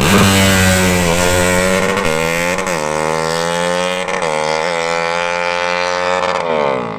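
200 cc drag-racing motorcycle engine running, its revs dropping from high just after the start, then held with short throttle blips about a third and two thirds of the way through, and falling again near the end.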